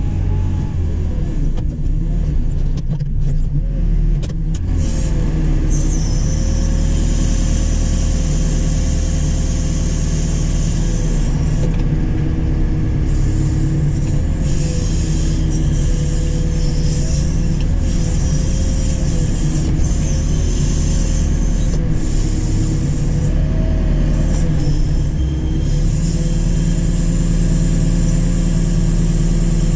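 JCB 4CX backhoe loader's diesel engine running steadily under load, with a whine that dips and rises in pitch again and again as the hydraulics work the backhoe, and stretches of high hissing that come and go.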